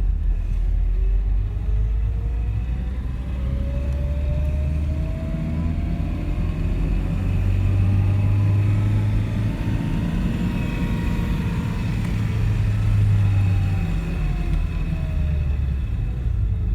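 Car engine and road rumble while driving, the engine note slowly rising and then falling in pitch as it revs up and eases off.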